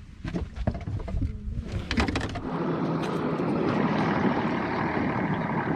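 A few knocks and clatters of gear on a fishing boat, then, about two and a half seconds in, a steady rushing noise sets in and holds.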